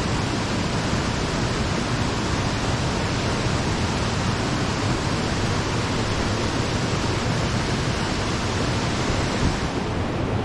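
Mountain stream water rushing steadily over rocks close by, a constant even hiss; the higher part of the hiss dulls slightly near the end.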